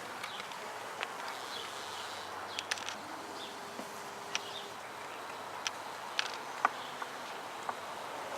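Honeybees buzzing around an open hive, a steady hum, with a dozen or so light clicks and knocks scattered through it.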